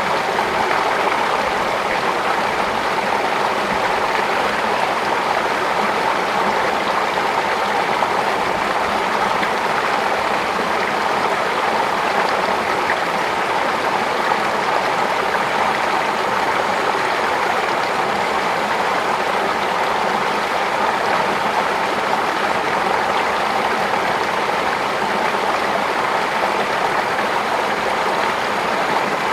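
Flowing water rushing steadily, with no breaks or changes.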